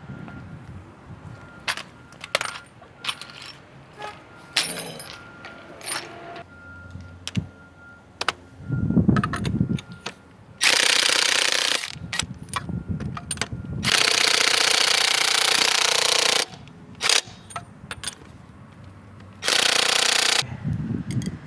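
Impact wrench run in three bursts, about a second and a half, two and a half seconds, and one second long, working the lug nuts off a wheel. Scattered metal clicks and clanks of tools come before the first burst.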